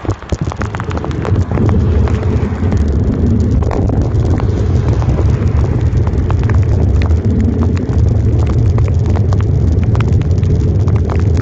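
Wind rumbling on a phone's microphone while cycling through heavy rain, with raindrops hitting the phone as many sharp ticks. The rumble swells about a second and a half in.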